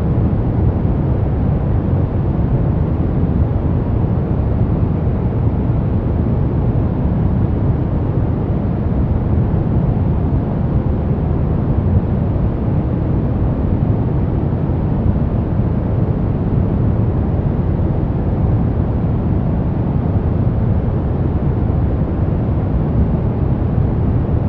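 Steady, unchanging electronic noise of the kind sold as white noise for sleep, weighted toward the low end so it sounds like a deep, even rushing hiss.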